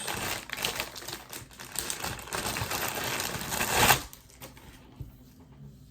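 Plastic packaging and wiring crinkling and clicking in the hands, a rapid run of small clicks with a louder crinkle just before four seconds in, then it stops.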